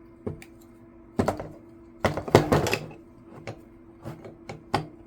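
Scattered metal clicks and knocks from a ratchet and 3/8-inch socket being fitted and worked on the bolts of a Tecumseh mower carburetor's intake, with a quick run of clicks about two seconds in.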